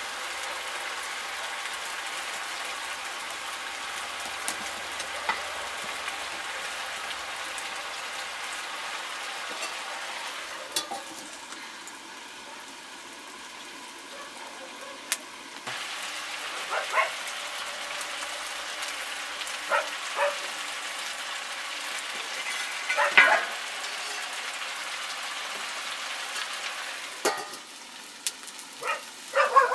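Kadaknath chicken frying in a wok over a wood fire: a steady sizzle that drops lower for a few seconds mid-way, with a few short sharp clicks and knocks in the second half. A dog starts yelping at the very end.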